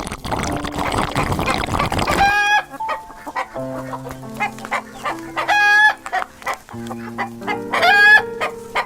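Chickens clucking, then three drawn-out calls spread through the rest of the clip, over light background music.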